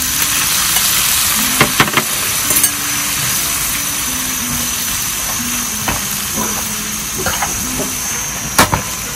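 Fermented fish paste (mắm) frying in a hot pan with a steady loud sizzle, being fried to bring out its aroma. A cooking utensil knocks against the pan a few times, twice close together about two seconds in and once sharply near the end.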